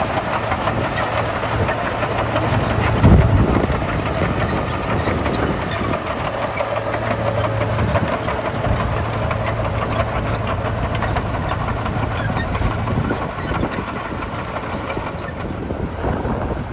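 Komatsu D41P bulldozer's diesel engine running steadily under a dense patter of small knocks, with one heavy thump about three seconds in. The engine hum eases off near the end.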